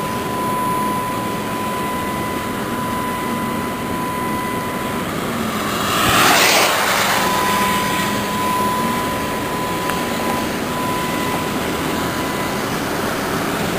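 Car driving: steady road and engine noise from inside the cabin, with a thin steady tone over it. A rushing swell rises and falls about six to seven seconds in.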